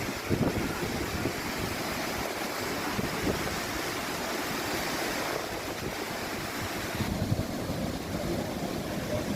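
Steady rush of seawater flowing into a dry dock as it is flooded, with wind buffeting the microphone. The hiss eases a little past halfway.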